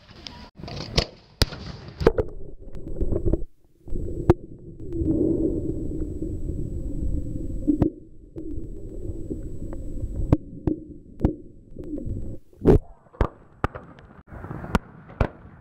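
Fireworks shells bursting in a string of sharp booms. From about two seconds in, the camera's microphone is under lake water, so the booms and the surrounding noise turn dull and muffled; near the end the clearer sound of the bursts returns.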